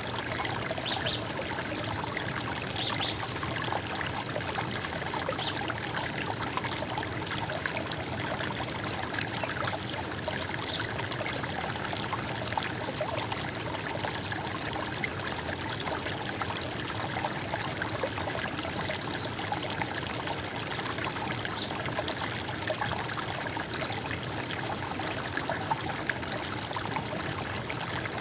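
Running water trickling and splashing steadily, a constant gurgling flow.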